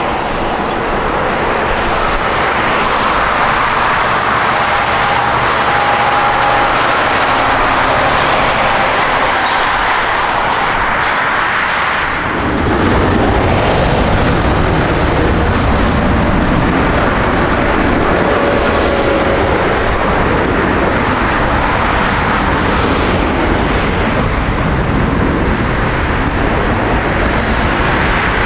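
Boeing 737-800's CFM56-7B jet engines at takeoff power, a steady loud roar that turns louder and deeper about twelve seconds in.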